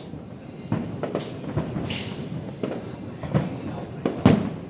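Fireworks bursting: a string of bangs at uneven intervals, the loudest near the end, with a short hiss about two seconds in.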